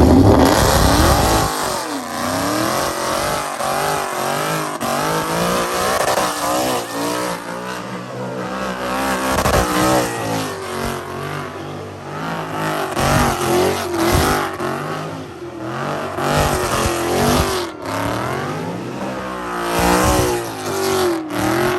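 Loud car engine revving hard again and again, its pitch rising and falling continually, with some tyre noise.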